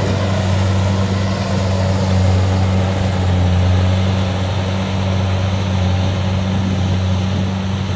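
Diesel engine of rice harvesting machinery running steadily at close range, a constant deep hum with an even mechanical noise over it.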